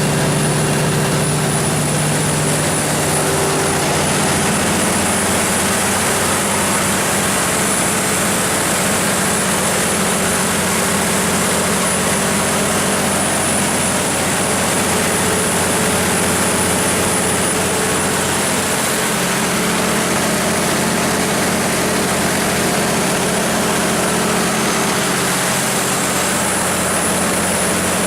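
Cummins NTA-855-G2 turbocharged inline-six diesel engine of a 350 kW generator set running steadily at constant speed: a loud, even drone with a thin high whistle held over it.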